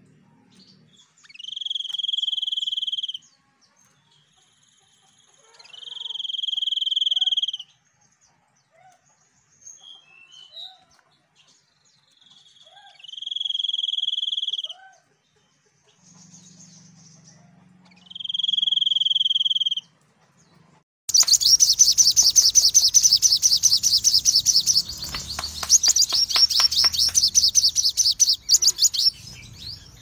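Songbirds calling: four long, steady, high whistled notes, each swelling in over about a second and a half and spaced a few seconds apart, with a few short chirps between. About two-thirds of the way in, a loud, fast, rattling chatter takes over.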